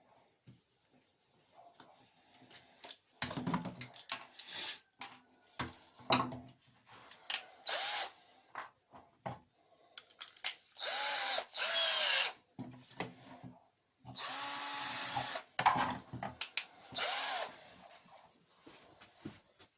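Electric drill drilling the holes for the control box into a repaired metal detector shaft, in several separate runs of one to two seconds. The motor whine rises as each run starts and falls as it stops, with small handling clicks between runs.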